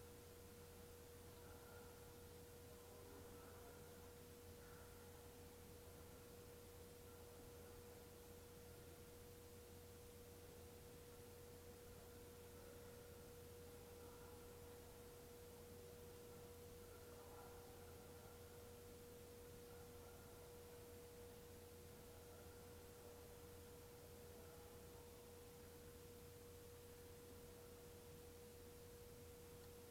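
Near silence: a faint steady high-pitched tone, one pitch held unchanged, over a low hum and hiss.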